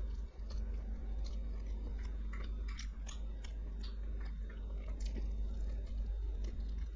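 A person chewing food close to the microphone: many short, irregular mouth clicks and crunches over a steady low hum.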